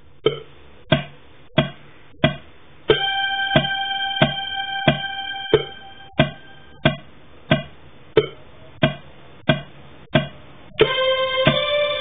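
A metronome click track ticking steadily, about one and a half clicks a second. A synthesizer keyboard plays a held chord over it from about three seconds in, fading out by about six seconds, and another chord starts near the end.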